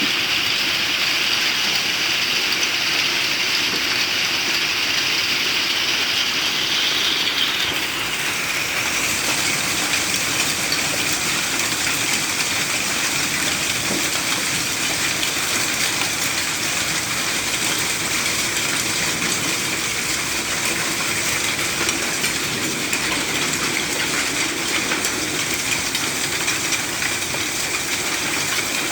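Hailstorm: heavy rain and hailstones pelting down in a dense, steady din of many small impacts, its character shifting slightly about eight seconds in.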